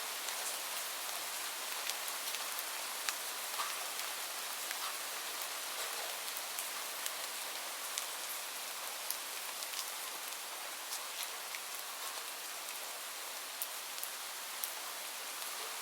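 Steady rainfall: an even hiss with scattered sharp ticks of individual drops landing.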